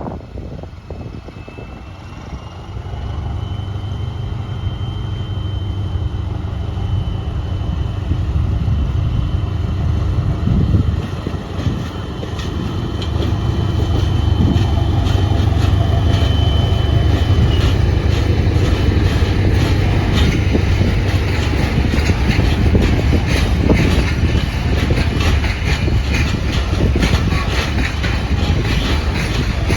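A train passing: a heavy low rumble that builds over the first several seconds, with a high steady whine above it for much of the first half, then a dense run of wheel clicks over the rail joints in the second half.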